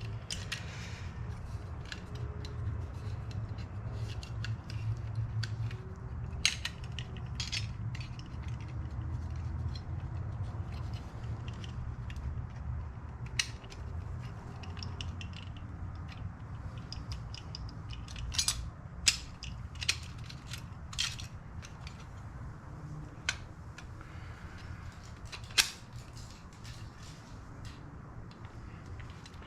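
Small metal parts of a car's heater control unit clicking and scraping as they are worked together by hand, with scattered light clicks and a few sharper ones, over a steady low hum.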